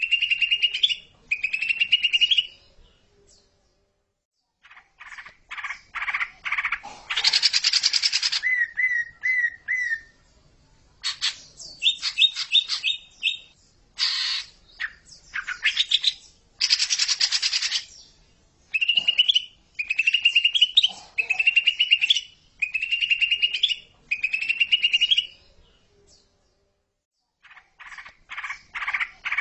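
Greater green leafbird (cucak ijo) singing a fast chattering song. Short rising phrases repeat about once a second, broken by quick trills and harsh rasping bursts, with a couple of brief pauses.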